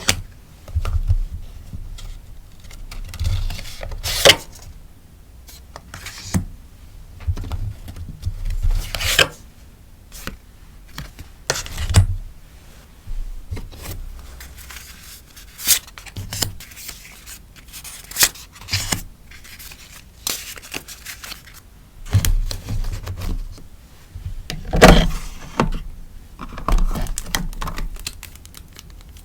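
Hands packing sticker orders: plastic sleeves and paper rustling and crinkling in short irregular bursts, with sharp taps and light thumps as items are handled and set down. The loudest thump comes about 25 seconds in.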